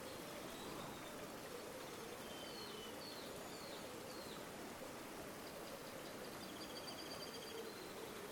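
River water flowing steadily, with faint small-bird calls over it: a few short chirps a couple of seconds in, then a rapid trill a little past the middle.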